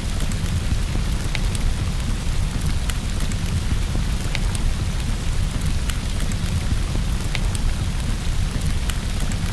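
Rain and fireplace ambience: steady rain over a continuous low rumble, with scattered sharp crackles from a wood fire a few times a second.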